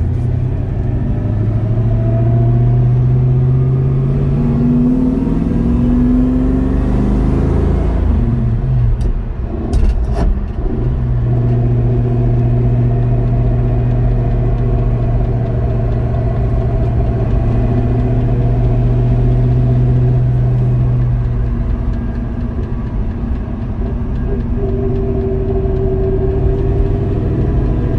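A 1968 Ford Mustang Bullitt's engine driving on the road. It pulls with rising pitch for the first several seconds, breaks off briefly with a couple of clicks around a gear change, then settles into a steady, even drone while cruising.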